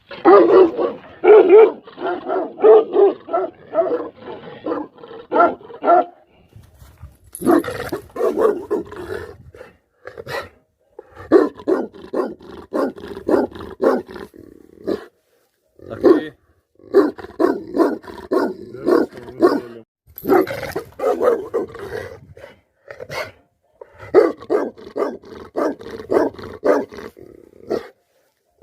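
Tibetan mastiff barking hard and deep, several barks a second in runs of a few seconds, broken by short pauses.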